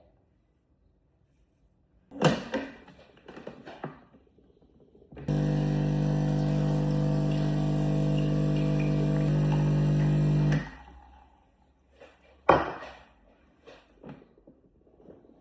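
A few clicks and knocks, then an electric coffee machine's pump hums steadily for about five seconds and cuts off suddenly, followed by a couple more sharp knocks.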